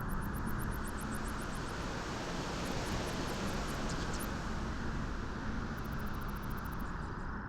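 Steady beach wind rushing, a dense even noise with most of its weight in the low and middle range and a faint low hum underneath.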